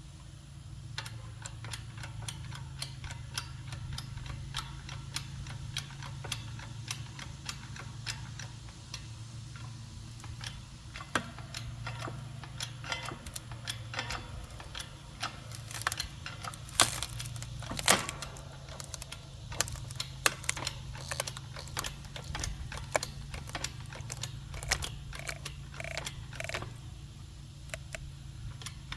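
Irregular clicking and cracking from a log being split on a homemade, hand-pumped hydraulic wood splitter built from an engine hoist, with a few louder cracks a little past the middle. A steady low hum runs underneath.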